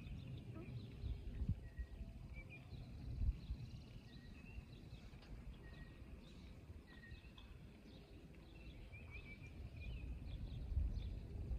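Small birds chirping repeatedly over a low rumbling background noise, which grows louder near the end.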